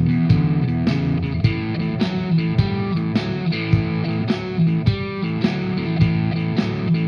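Blues music: guitar played over bass and a steady beat of about two hits a second.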